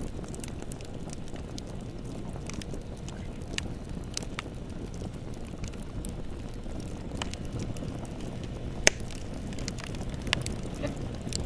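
Bonfire burning: a steady low rumble of flames with scattered sharp crackles and pops, the loudest pop about nine seconds in.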